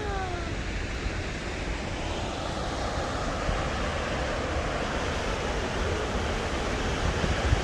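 Steady rushing roar of a waterfall, High Falls on the Baptism River, with some low wind rumble on the microphone.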